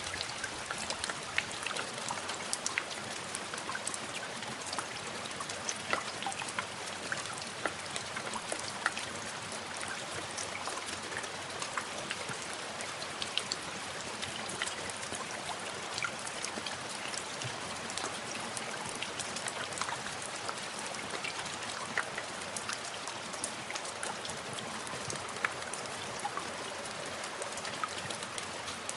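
Steady rain with dense patter of individual drops striking a hard surface.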